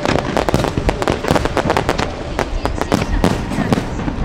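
Fireworks display going off in quick, continuous succession: many sharp bangs and crackles a second over a steady low rumble.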